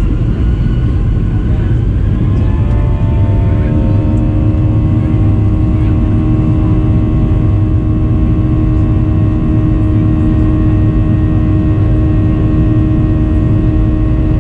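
Boeing 737-800's CFM56 jet engines heard from inside the cabin over a loud rumble: their whining tones rise during the first few seconds, then settle into a steady drone as the engines reach high thrust, typical of power being set for the takeoff roll.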